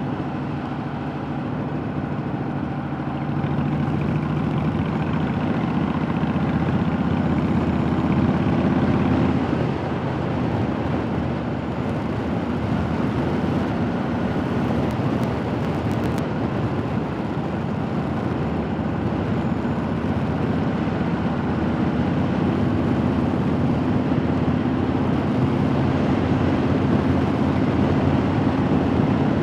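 Honda Fury's V-twin engine running at road speed, mixed with wind rush. The engine note falls away about ten seconds in, then settles and climbs slowly again.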